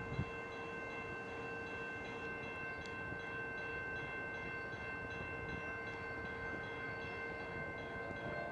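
Exo commuter train at a station, a steady hum with several constant tones held over a haze of rumble.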